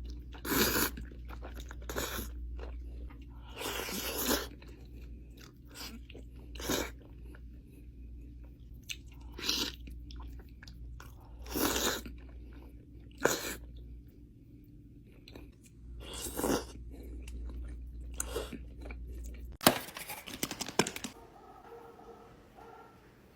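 A person eating crunchy food close to the microphone: loud crunching bites and chewing every second or two. About 20 s in there is a quick run of crackling crunches.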